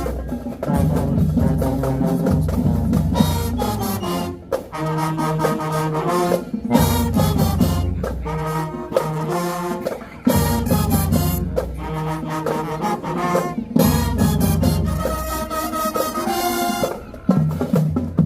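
Show-style high school marching band playing: brass chords, trombones and trumpets, over bass and snare drums. The phrases are punched out in blocks, with short breaks between them about 4, 10, 14 and 17 seconds in.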